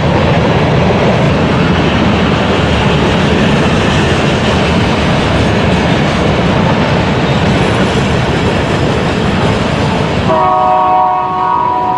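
A train passing close by, a loud steady rumble of wheels and cars. About ten seconds in the sound changes abruptly and a locomotive horn sounds a steady multi-note chord.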